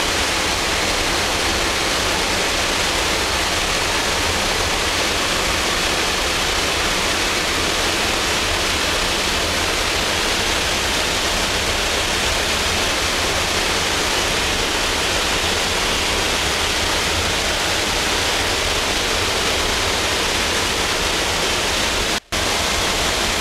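Steady loud rush of airflow and engine noise inside a C-27J Spartan transport aircraft in flight with its doors open. The noise drops out for an instant near the end.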